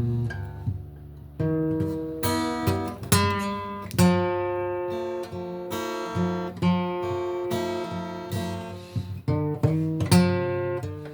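Acoustic guitar played solo: chords and single notes plucked and strummed, each ringing out and fading before the next.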